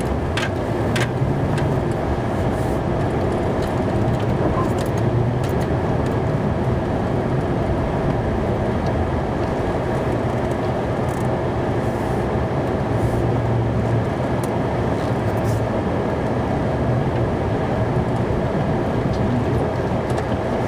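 Snowplow truck's engine and cab noise while plowing heavy, wet snow. A steady hum with a few light clicks.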